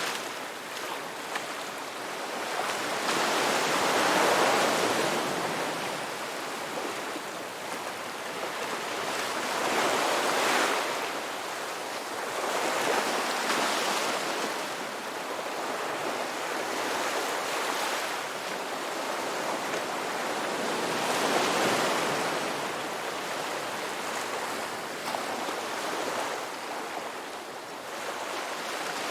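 Ocean waves breaking on a beach: a continuous surf rush that swells and eases every few seconds, five or six waves in all.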